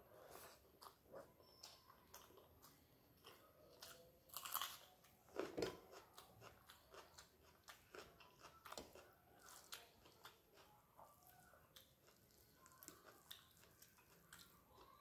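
Close-up mouth sounds of a person chewing a mouthful of rice mixed with fish curry eaten by hand: soft, irregular clicks and small crunches, the loudest crunching about four to six seconds in.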